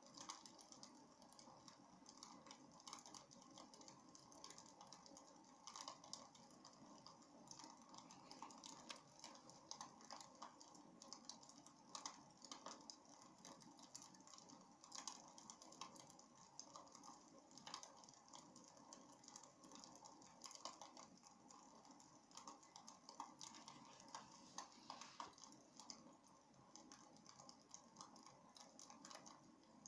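Wood fire crackling in a fireplace: a faint, steady stream of small irregular pops and snaps over a soft hiss.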